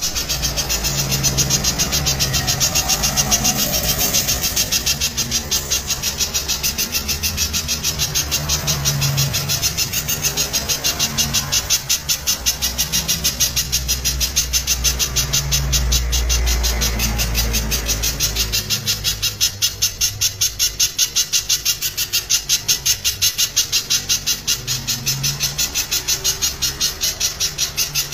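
Spiderhunter (pijantung) singing a long, rapid run of loud, sharp repeated notes, a few a second, over a low hum.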